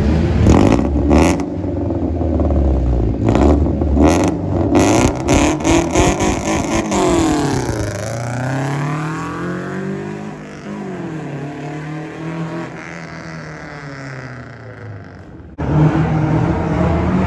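Car engines revving hard with a string of sharp pops, then an engine note that falls and rises in pitch as a car drives off and fades. Near the end it cuts abruptly to another loud running engine.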